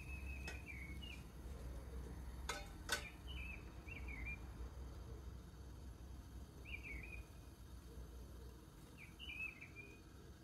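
Short warbling bird chirps every second or two over a low steady hum, with two sharp metal clinks about two and a half seconds in as a stainless steel steamer insert is set onto the pot.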